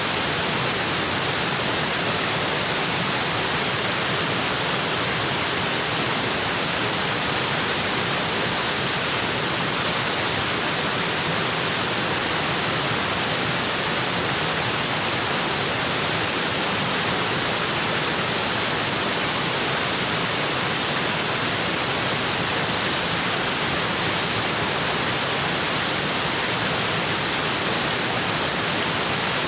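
Waterfall cascading onto rocks: a steady, unchanging rush of falling water, strongest in the hiss range.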